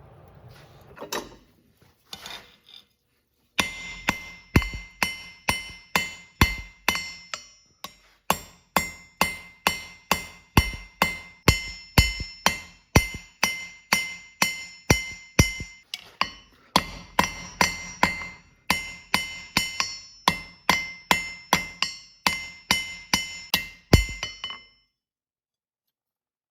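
Hammer blows on an anvil, about two a second with a couple of short pauses, each strike ringing out with a clear metallic tone: hand-forging steel. It cuts off suddenly near the end.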